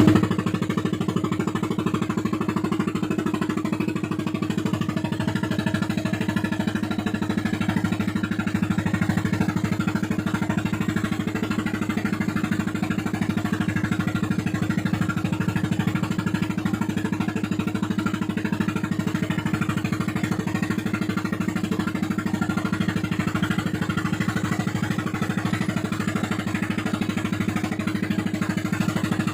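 A fishing boat's inboard engine running steadily at a constant high speed, with a fast, even beat.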